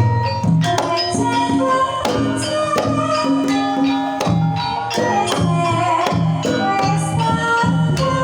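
Banyumasan gamelan music for tayub: struck metal keyed instruments and drum strokes play in a steady rhythm. From about two seconds in, a female sinden sings a wavering, ornamented vocal line over them.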